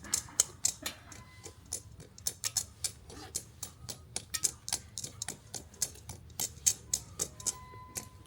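Wood bonfire crackling: a steady run of sharp, irregular pops and snaps from the burning branches.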